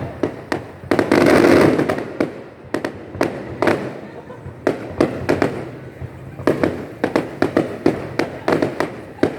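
Aerial fireworks going off: an irregular run of sharp bangs and pops, with a denser stretch of crackling about a second in.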